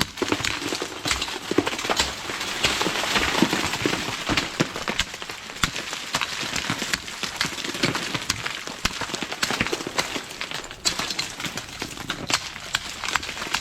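Ice crunching and crackling: a dense run of sharp, irregular cracks and crunches of ice-glazed material.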